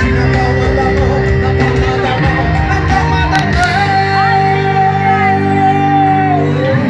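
Live band music with a singer. A long note is held from about four seconds in and slides down near the end.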